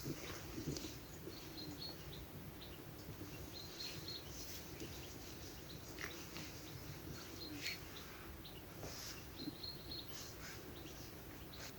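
Small birds chirping faintly, short high calls repeated every second or two, over a steady low background hiss with a few light clicks.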